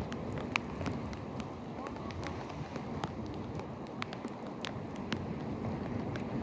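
Rain falling on the water of a natural rock pool: a steady patter with many scattered, irregular sharp drop ticks.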